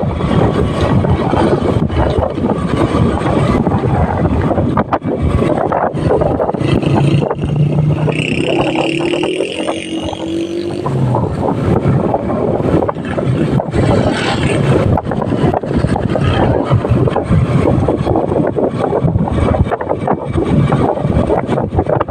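Motorcycle riding at speed: wind buffeting the microphone over the engine and road noise. A pitched whine comes in for a few seconds near the middle.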